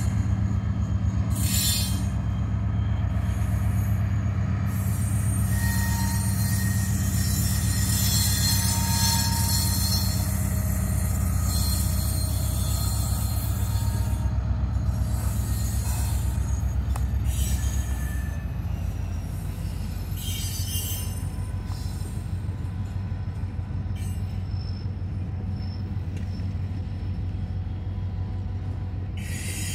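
EMD SD40-2 diesel locomotive's 16-cylinder two-stroke engine running with a steady low drone as it shoves a cut of freight cars, while the wheels squeal in repeated short spells over the first twenty seconds or so. The drone eases a little after about eighteen seconds.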